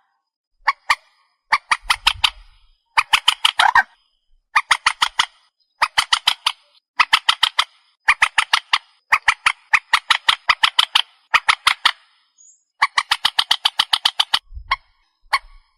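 Trích ré marsh bird calling: a rapid series of about eight to ten harsh, clipped notes, repeated in bursts roughly every second and a half. This is a recorded lure call played to attract the birds at night.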